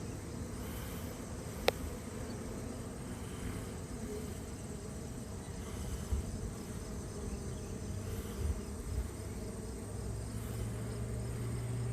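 Honeybee colony humming steadily, with one sharp click about two seconds in.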